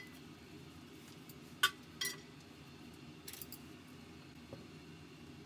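A few separate light clinks of a utensil against dishware as the yakisoba is served, the sharpest about a second and a half in, over a faint steady hum.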